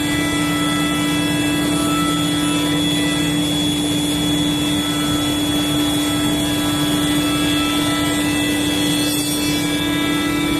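CNC router running with a steady, unchanging high whine over a constant machine noise. Near the end a second, higher whine falls in pitch.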